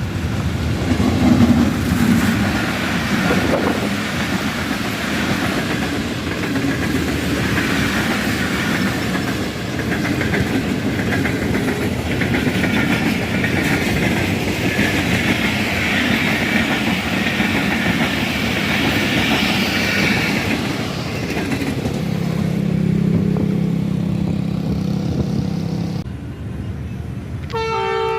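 Tezgam Express train hauled by ZCU-30 diesel-electric locomotive 6307 arriving: continuous rumble of the locomotive and of wheels running over the rails. Near the end the locomotive's horn starts, a steady chord of several tones.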